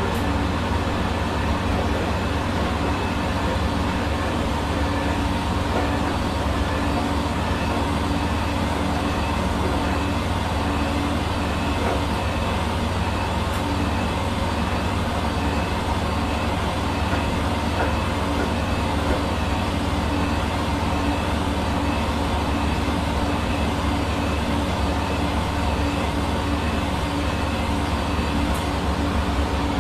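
Hair dryer running steadily: a constant rush of blown air over a low motor hum, with no change in speed.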